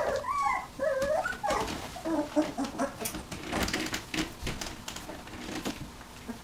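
Young puppies whimpering and squeaking in a run of short, wavering high calls over the first three seconds. After that come scattered clicks and rustling.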